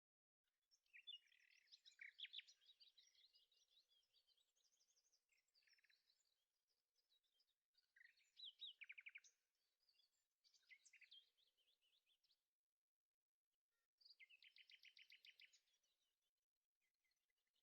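Faint birdsong: several bursts of high chirps and quick trills, with a pause near the end before a last rapid trill.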